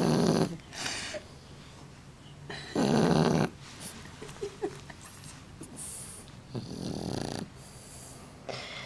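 Shar-pei dog snoring in its sleep: three loud snores, roughly one every three to four seconds, the last one softer.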